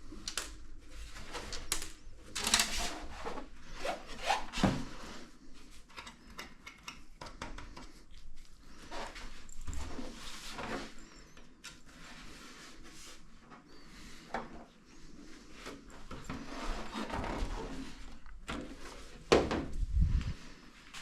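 Irregular clicks, knocks and rubbing of hard objects being handled, with a few sharper knocks near the end.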